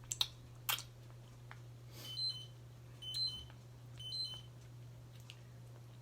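Three short electronic beeps, evenly about a second apart, each a quick two-note chirp. A few sharp clicks come in the first second, before the beeps.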